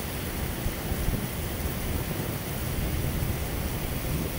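Heavy rain pouring steadily onto flooded asphalt, a dense hiss with a low rumble underneath.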